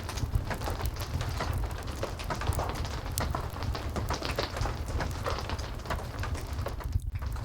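Steady heavy rain, with a low rumble underneath and many small clicks of drops and fire crackling. The sound drops out briefly near the end.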